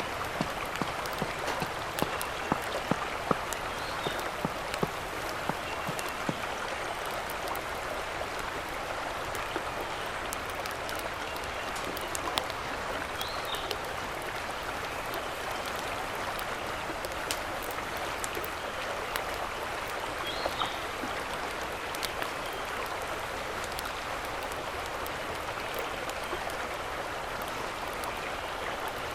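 Mountain stream rushing steadily. Sharp clicks and pops come thickly in the first few seconds, then thin out, and a few faint high chirps sound now and then.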